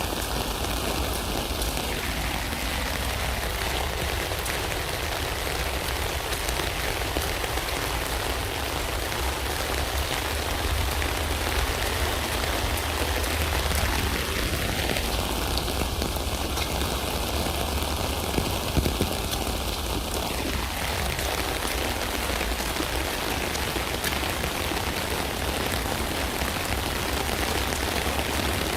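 Steady rain falling on a tent, a dense even patter with a few slightly louder drops about two-thirds of the way through.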